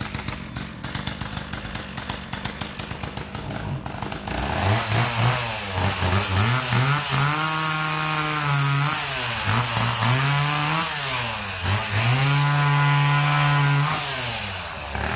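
Two-stroke chainsaw running with a rough, pulsing idle. About four seconds in it is throttled up and held at high speed, backed off, and revved and held again twice.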